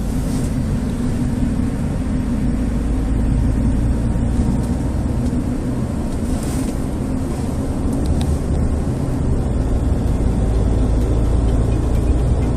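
Steady low road rumble inside the cabin of a moving Nissan X-Trail, mostly tyre pattern noise from its BFGoodrich all-terrain tyres.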